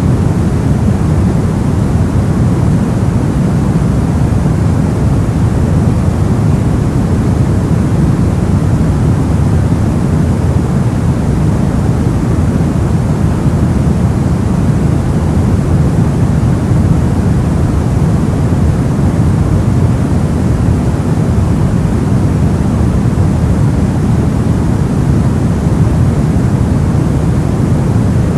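Soft white noise for sleep: a steady, unchanging hiss, heaviest in the low end, with the highs rolled off so it sounds deep and muffled.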